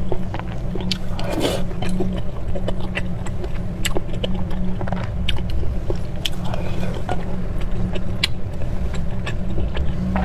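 Close-miked eating: chewing and biting with scattered sharp clicks and wet smacks, over a steady low hum.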